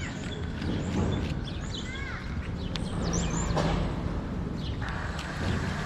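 Short, quick bird chirps, several times, over steady outdoor background noise.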